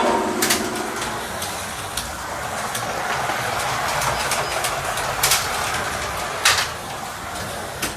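Carrera Digital slot cars running laps on the plastic track: a steady whir of their small electric motors and the rattle of the cars in the slots, broken by a few sharp clicks.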